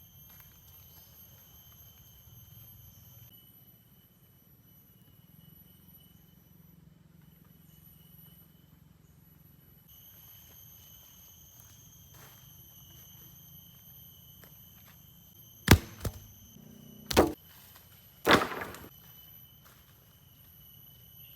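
Faint steady drone of forest insects, then near the end four sharp, loud cracks of wood being chopped or snapped while gathering timber for a shelter.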